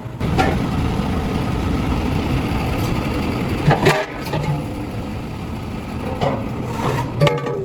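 A machine running steadily, with a few sharp knocks at intervals.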